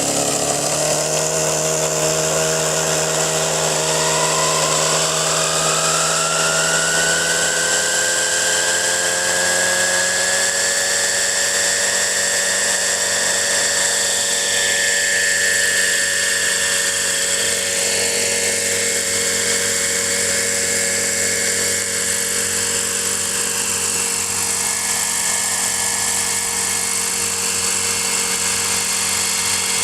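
Four-stroke model engine of a Kalt Baron Alpha RC helicopter running steadily, its pitch climbing over several seconds and then holding level.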